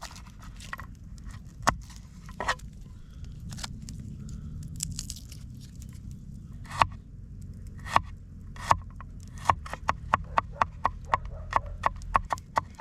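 Knife cutting garlic: a few separate cuts, then, about three-quarters of the way through, a quick even run of chops, about four a second.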